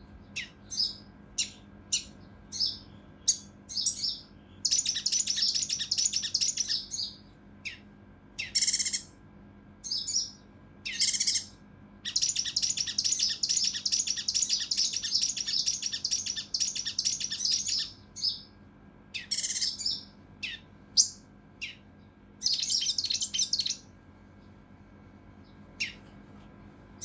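A kinoi (cucak rante mas) singing: short sharp call notes broken up by long, dense, rapid harsh rattling trills, the longest lasting about six seconds midway, before the bird falls quiet near the end.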